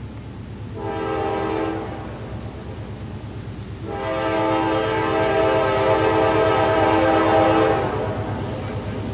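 Diesel freight locomotive's multi-chime air horn: a short blast, then a long blast about two seconds later, over the steady low rumble of the locomotive's engines.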